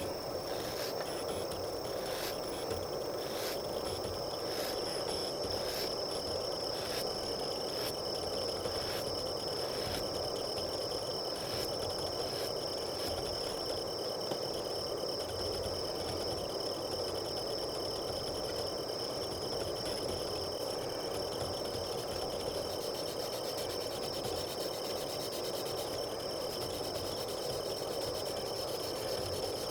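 A steady chorus of crickets chirping, with a continuous high trill. For the first twelve seconds or so there are also regular ticks about once a second.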